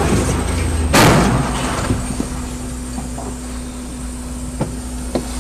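A car collision heard from a dash camera: one loud impact about a second in, then steady engine and road noise with a few light knocks.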